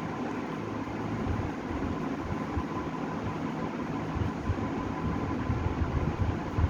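Pencil colours rubbing on paper in irregular shading strokes, over a steady background hum.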